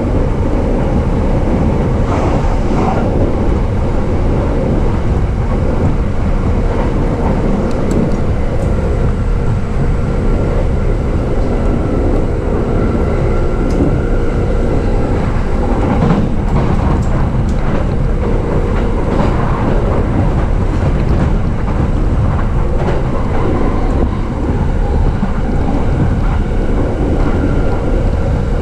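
Running noise of a JR East E233 series electric commuter train, heard from inside the carriage: a steady, loud rumble of wheels on rails and the moving car.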